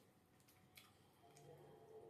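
Near silence with a few faint, sharp mouth clicks from chewing food.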